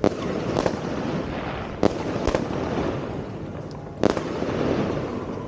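Fireworks going off all around: about five sharp, loud bangs at irregular intervals over a continuous rumble and crackle of more fireworks.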